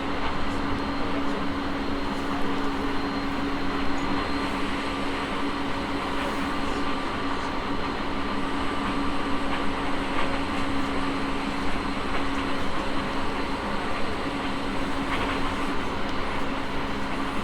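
Running noise of a JR East E217 series electric train heard from on board at steady speed. It is a continuous rumble with a constant-pitch whine that neither rises nor falls, so the train is neither accelerating nor braking.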